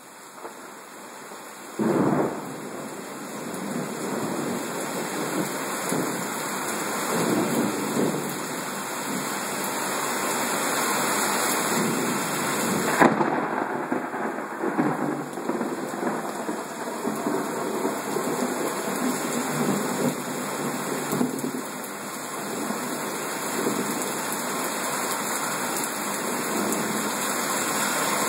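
Heavy rain pouring down steadily in a thunderstorm, with thunder. The rain grows suddenly louder about two seconds in, and there is a sharp crack about halfway through.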